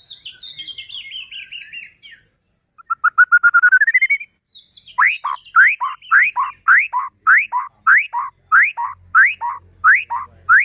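White-rumped shama singing: a quick falling trill, then a fast rising trill, then a loud rising whistled note repeated about two and a half times a second.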